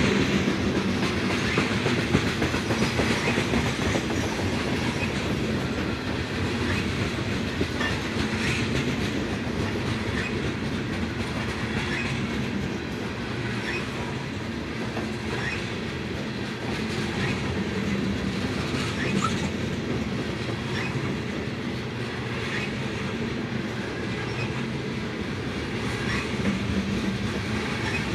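BNSF freight train of gondola cars rolling past: a steady rumble of steel wheels on rail, with an even clickety-clack every second or so as the wheels cross rail joints.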